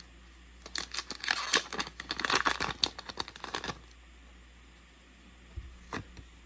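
A foil trading-card booster pack being torn open, a dense crackling of tearing and crinkling wrapper for about three seconds, then a couple of light clicks near the end.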